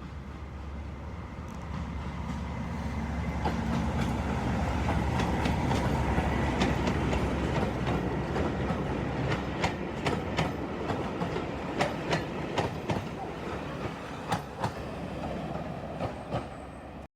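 Train on the move, its low running rumble building over the first few seconds and then holding steady. From about halfway, wheels click over rail joints again and again.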